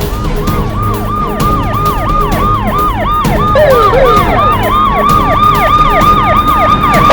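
Police car sirens: a fast yelp of about three sweeps a second overlapping a slower wail, over a low vehicle rumble, growing louder toward the end.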